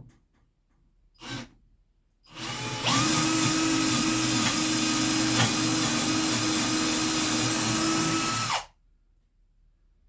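Electric drill boring a bolt hole through the wooden leg and top frame of a cornhole board. After a short blip of the trigger it spins up and runs at a steady pitch for about six seconds, then stops suddenly.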